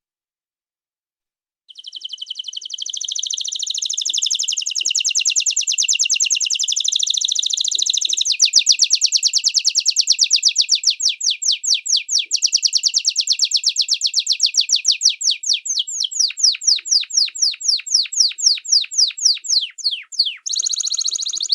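Small songbird singing a long, high-pitched trill of rapidly repeated notes, starting about two seconds in; the notes grow more separate and slower in the second half, with a brief break near the end.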